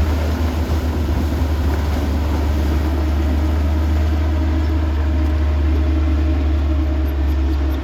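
Heavy diesel earthmoving machine engine running steadily with a deep, even rumble, cutting off abruptly at the end.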